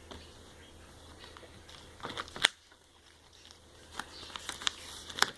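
Apple Watch box and packaging being handled: scattered light clicks and rustles of cardboard and plastic, with one sharp click about two and a half seconds in.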